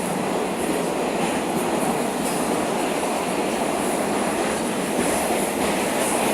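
Moscow metro train running between stations, heard from inside the carriage: a steady, even running noise of wheels on rail and the car in the tunnel.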